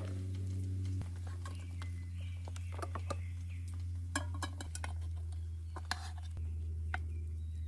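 Dishes and cutlery clinking in scattered light knocks and clinks over a steady low hum.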